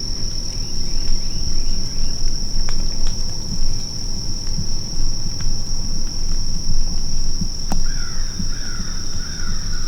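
A steady, unbroken high-pitched insect drone over a dense low rumble, with a short run of bird chirps near the end.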